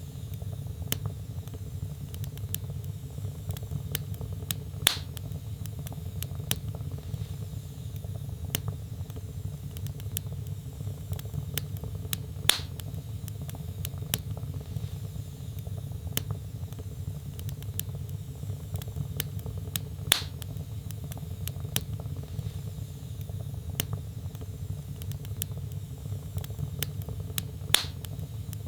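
Wood fire burning in a fireplace: constant crackling over a steady low rumble of the flames, with four louder pops spaced about seven and a half seconds apart.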